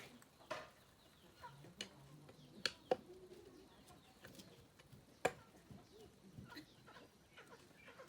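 Scattered sharp clicks and taps, a few seconds apart, with faint chicken clucking in the background.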